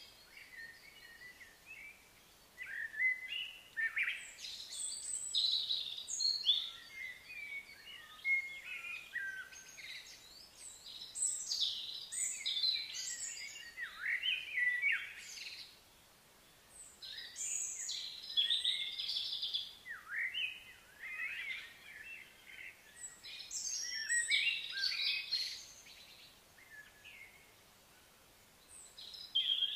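Songbirds chirping and singing in bouts of quick high notes that sweep up and down, with short quiet gaps between bouts.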